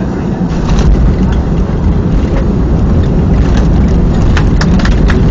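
Boeing 737-300 cabin noise during landing: a loud, steady rumble of engines and airframe that swells about a second in, with growing rattling and knocking from the cabin fittings later on.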